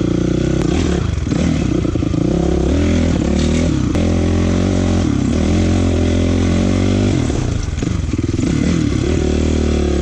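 Honda CRF450 dirt bike's single-cylinder four-stroke engine being ridden. The revs rise and fall, easing off briefly about a second in, near four seconds and again near eight seconds.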